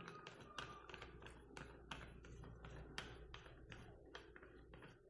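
Faint, regular metallic clicking, about four clicks a second, as the forcing screw of a crankshaft helical-gear puller is turned in against the gear.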